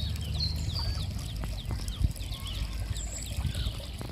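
Mallard ducklings peeping over and over, many short, high calls that each slide downward in pitch. A dull thump comes about halfway through.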